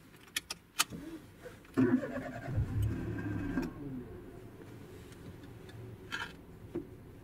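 Small car's engine being started from inside the cabin: a few key clicks in the ignition, then the starter turns and the engine catches about two seconds in, settling into a steady idle.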